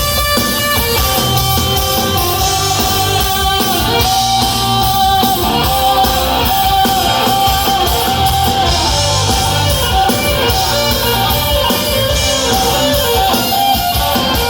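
Live rock band playing an instrumental stretch: electric guitars over bass and drums, with a held, sustained guitar line.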